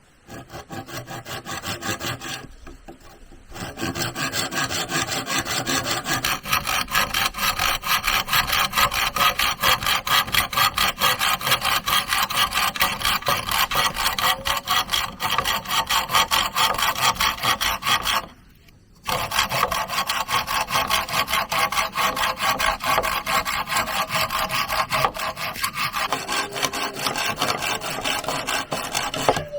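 Hand saw cutting wood with fast, even back-and-forth strokes, stopping briefly twice.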